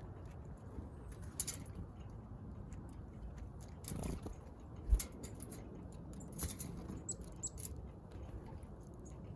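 Small backyard birds at a feeder, with scattered soft pecks and wing flutters as faint brief ticks and rustles, and one short low thump about five seconds in.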